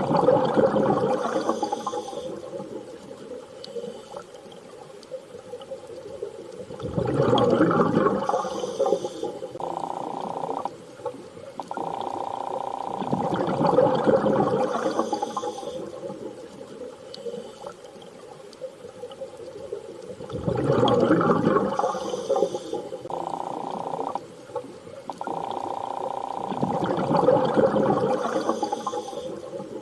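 Underwater sea ambience: a wash of water noise swells and fades about every six to seven seconds, with short stretches of a steady droning tone in between.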